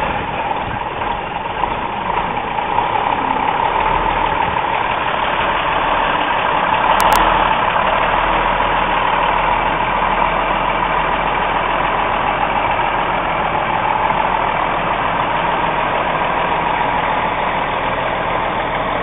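Mack F700 truck's diesel engine running steadily under way, a little louder around a third of the way in.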